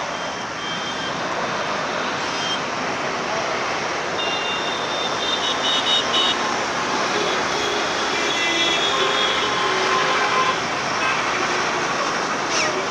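Jet airliner engines: a steady rush of noise that grows slightly louder through the middle, with a thin high whine over it.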